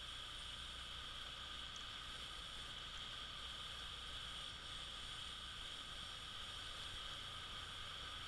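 Faint, steady high-pitched insect chorus, a continuous hiss-like drone with no breaks.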